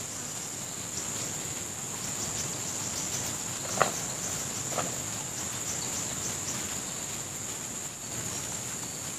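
Steady high-pitched drone of a forest insect chorus, with a few sharp knocks, the loudest about four seconds in.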